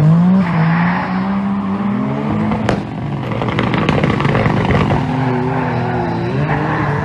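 Turbocharged Perodua Kancil launching off the drag-strip start line and pulling away down the track, its engine note climbing and dropping back in steps as it shifts up through the gears. A single sharp crack is heard about two and a half seconds in.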